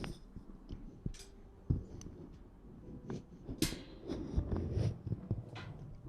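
ASMR trigger sounds close to the microphone: irregular soft rustling and scratching with light taps and knocks, and a brighter swish about three and a half seconds in.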